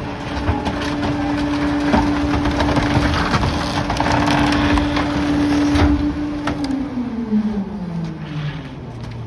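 Rear-loader garbage truck's packer compacting curbside debris: the engine holds high revs while wood and debris crack and splinter, then the revs drop back in steps to idle about two thirds of the way in.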